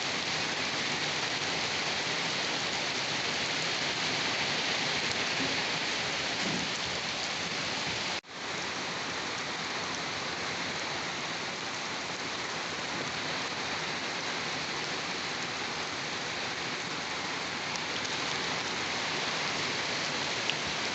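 Steady rain falling on a surface, an even hiss of drops that cuts out for an instant about eight seconds in and then carries on.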